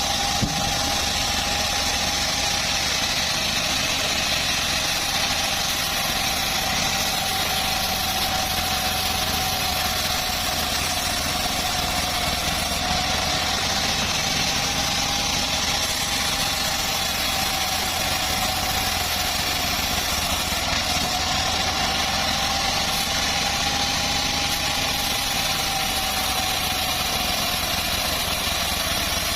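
Homemade bandsaw sawmill running through teak, a steady high whine from the machine whose pitch sags and recovers slightly, over a low hum from the drive.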